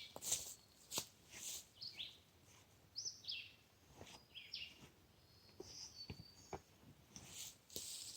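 Faint bird chirps, a dozen or so short notes sliding in pitch, over scattered light clicks and crunches.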